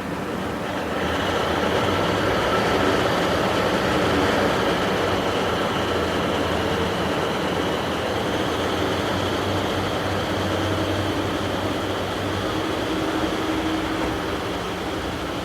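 KiHa 181 series diesel railcar's engines running, a steady diesel drone with a low hum. It swells about a second in and eases slightly near the end.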